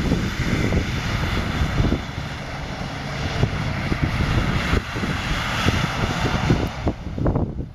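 Audi A6 quattro diesel engine revving hard as the car slides sideways through deep snow, all four wheels spinning and spraying snow. The sound drops away sharply at the very end.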